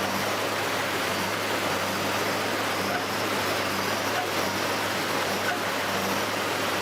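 Steady machine noise: an even rushing sound with a low, steady hum underneath.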